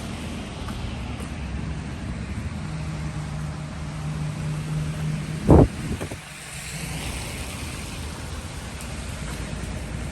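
Steady rain with wind noise. A low, steady car engine hum runs for a few seconds and ends with a sharp thump about five and a half seconds in.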